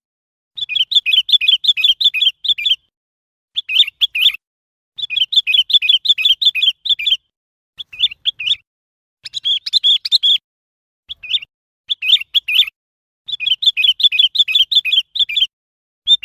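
Sooty-headed bulbul calling in about eight phrases of quick, repeated chirping notes. Each phrase lasts half a second to two seconds, with dead-silent pauses between them.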